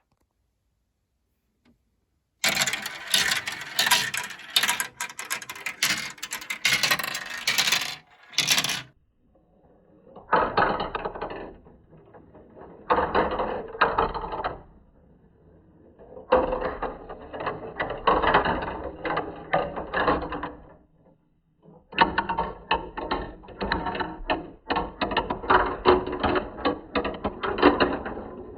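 Marbles rolling and clattering down a plastic marble-run slope track: several runs of dense rapid clicks, each a few seconds long with short gaps between them, after about two seconds of silence at the start.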